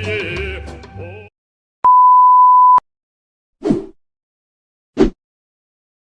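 A music clip fades out, then a single steady censor bleep, a pure tone held for about a second, followed by two short separate sound-effect blips.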